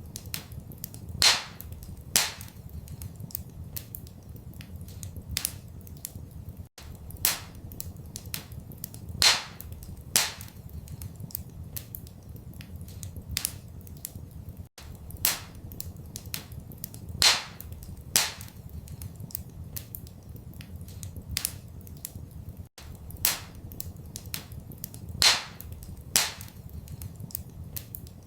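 Wood fire crackling in a fireplace: a run of sharp snaps and pops, a few much louder than the rest, over a steady low rumble. The same pattern of pops repeats about every eight seconds, a short looped recording.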